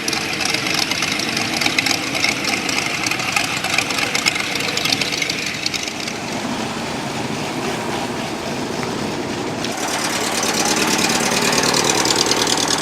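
Car engine running steadily at idle, with a brighter, harsher edge coming in about ten seconds in.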